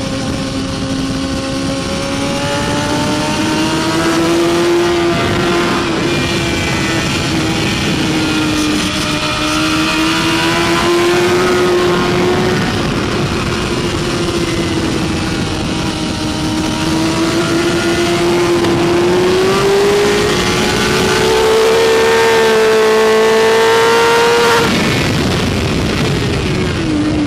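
BMW S1000RR inline-four engine running hard at high revs, heard on board over heavy wind rush. Its pitch rises and falls gently, climbs higher for a few seconds near the end, then drops sharply.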